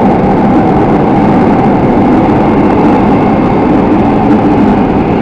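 Toei 5300-series electric train standing at the platform with its onboard equipment running in a steady, loud hum, while its sliding doors close.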